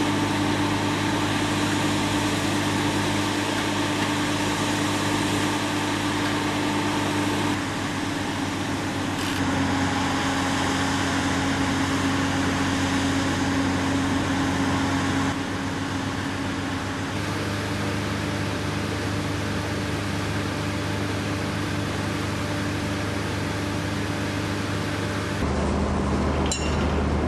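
An engine running steadily, a low drone with a hum, that changes abruptly several times.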